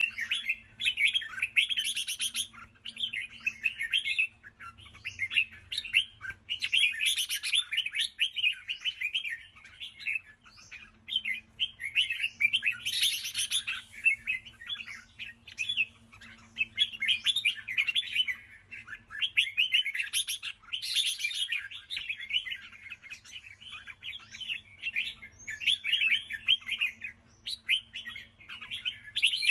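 Red-whiskered bulbul singing a fast, chattering song of rapid notes, pouring out without a break, with louder, shriller flurries every few seconds.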